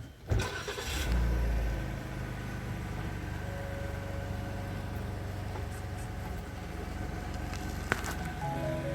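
Engine of a 2020 Lincoln Continental Black Label starting: a click, then a loud low surge that settles within a second into a steady idle hum. Music comes in near the end.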